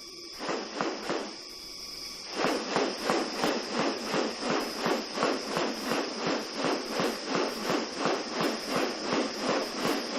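A steady high-pitched insect drone. About two seconds in it is joined by a regular pulsing, rasping sound of about three beats a second that runs on without letting up.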